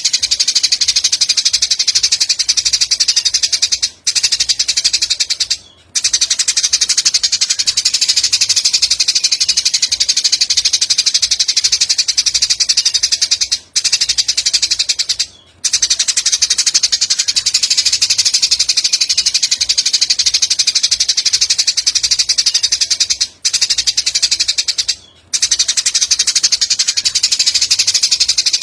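Recorded bird song for training songbirds: one continuous, very rapid high-pitched trill. It breaks briefly twice in a pattern that repeats about every ten seconds, the sign of a short recording played on a loop.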